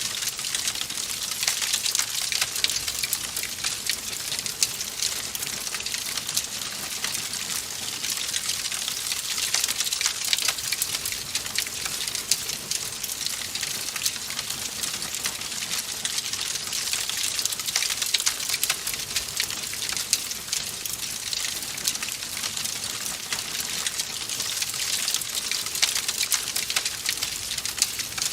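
Wood fire in a fireplace crackling steadily: a dense, unbroken stream of small pops and snaps over a soft hiss.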